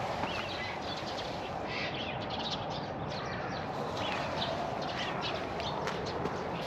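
Small birds chirping in many short, scattered calls over a steady outdoor background hiss.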